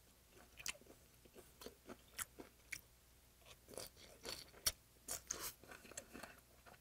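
Close-up chewing of spicy raw stingray salad, with irregular crisp crunches and wet mouth clicks that come thicker in the second half. The firm, still-unsoftened stingray bone and the raw vegetables give the bites their crunch.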